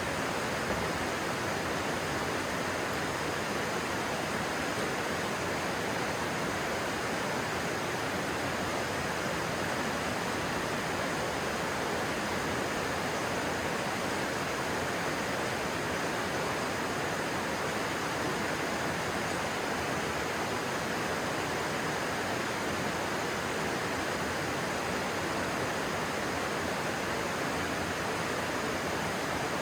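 Stream water rushing over rocks: a steady, even rush that does not change.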